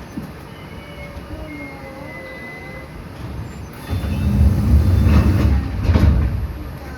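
Enshu Railway electric train running, heard from inside the car: a steady running noise with faint whining tones. About four seconds in it swells into a loud low rumble for a couple of seconds, then fades back.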